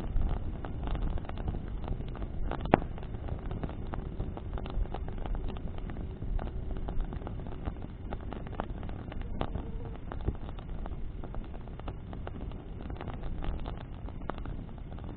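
Bonfire of branches burning in the wind: scattered crackles and pops over a low steady rush of wind and flame, with one sharp, louder pop about three seconds in.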